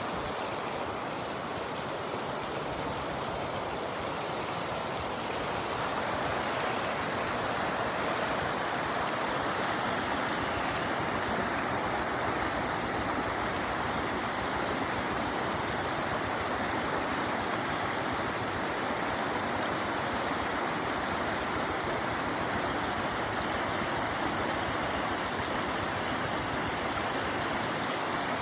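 Waterfall: a steady rush of falling water, a little louder from about six seconds in.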